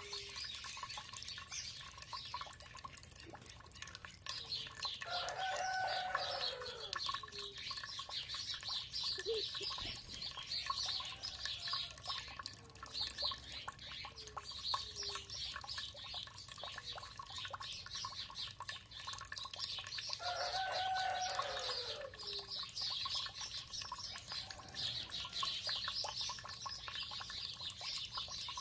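A mixed chorus of songbirds chirping and trilling without pause, under a steady low wash of running water. Twice, about five seconds in and again near twenty seconds, a longer, lower call sounds and falls in pitch at its end.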